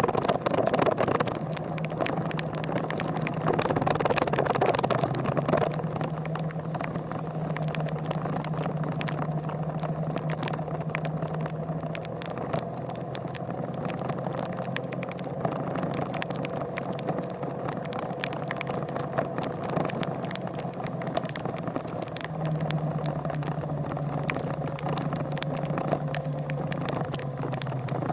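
A vehicle engine running steadily, with many short sharp rattling clicks throughout.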